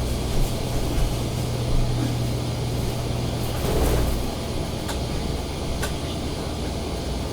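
Steady low hum over a background of noise, the hum fading out about halfway through, with a few faint ticks later.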